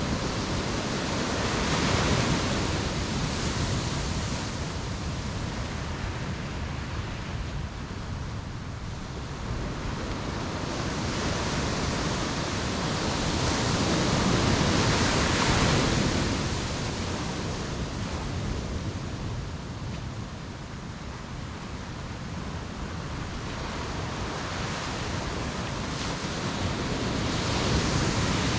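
Ocean waves washing onto a beach: a steady rush of surf that swells and fades in long surges, peaking about every thirteen seconds.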